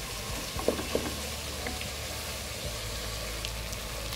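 Chana dal and masala sizzling steadily as they fry in a pressure cooker, stirred with a wooden spatula, with a couple of light knocks of the spatula about a second in.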